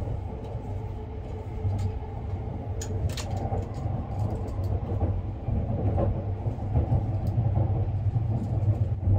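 Sunrise Izumo sleeper train running, a steady low rumble heard inside the carriage that grows slowly louder, with a few light clicks.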